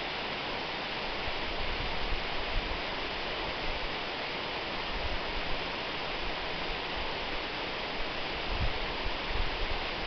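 Waterfall: water falling and splashing in a steady, even rush, with a low rumble that swells now and then.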